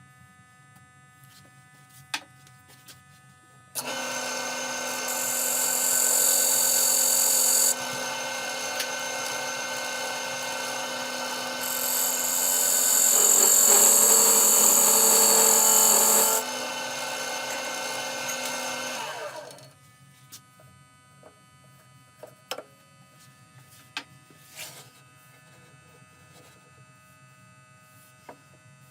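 Wood lathe switched on, running steadily with two loud stretches of high hissing as the tool works the spinning walnut piece, then winding down and stopping about two-thirds of the way through; a few small clicks follow.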